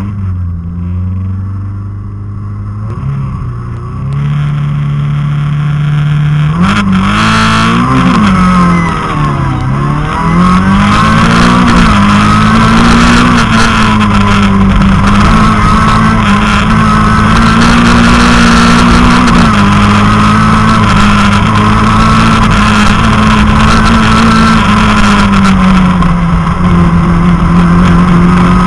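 Citroën Saxo rally car's engine heard from inside the cabin. It is quieter for the first few seconds, then gets much louder about six seconds in, its pitch sweeping up and down through gear changes. It then runs at high revs, hard on the throttle, with small dips at each shift.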